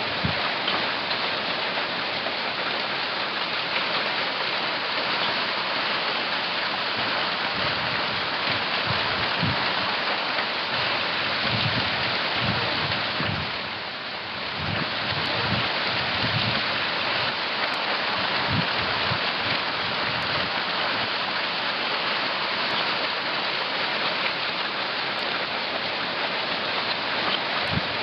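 Hailstorm: a dense, steady hiss of hail and rain striking surfaces, with scattered low thuds, easing briefly about halfway through.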